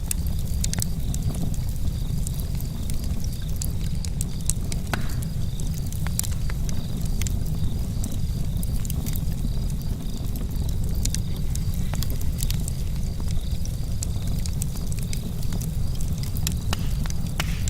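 Campfire burning with irregular sharp crackles and pops over a steady low rumble.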